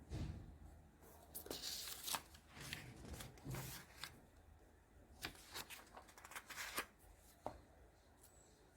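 Close-up handling sounds: scattered light clicks and taps with short rustles, the busiest stretch in the first half.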